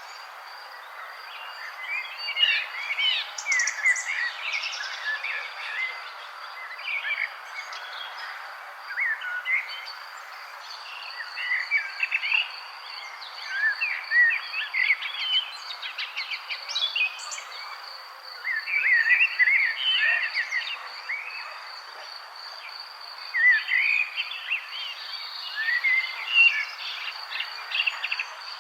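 Several birds chirping and twittering in bouts with short lulls, over a steady, evenly pulsing insect trill and a soft background hiss.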